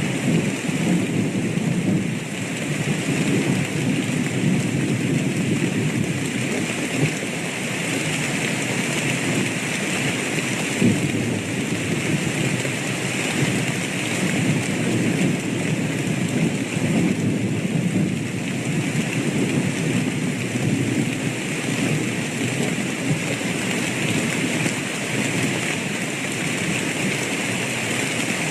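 Steady rain with a continuous low rumble of thunder underneath, with no sharp thunderclaps.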